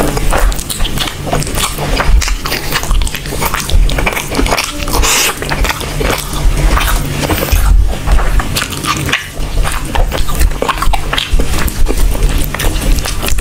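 Loud chewing and lip-smacking of a person eating chicken leg curry and rice: a dense, irregular run of wet smacks and clicks as the meat is bitten and chewed off the bone.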